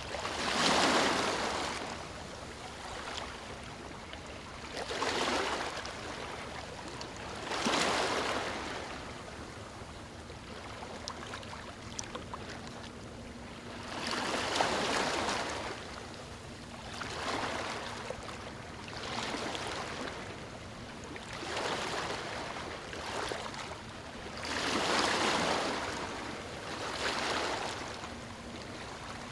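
Small waves breaking and washing on a beach, about ten swells of rushing surf over a steady wash, one every two to three seconds.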